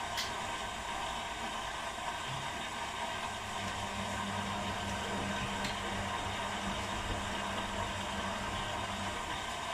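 Two washing machines, an Arctic and an Electrolux, running on their quick programs: a steady whir and hiss, likely water running in as they fill. A low motor hum joins a few seconds in and stops shortly before the end.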